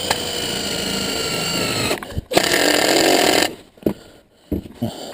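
A power drill driving short screws: a steady run of about two seconds, then after a brief pause a shorter, louder run, followed by a few light clicks.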